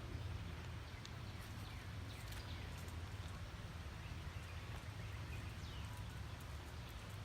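Outdoor ambience on a walk: a steady low wind rumble on the microphone, faint footsteps on the trail about twice a second, and a few faint bird chirps.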